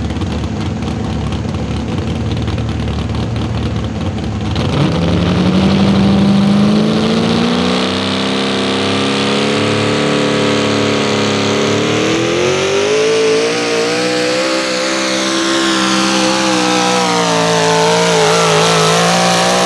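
4x4 pulling truck's engine, running rough and low for the first few seconds, then revving up about five seconds in and climbing steadily in pitch under load, wavering and dipping a few times as it pulls.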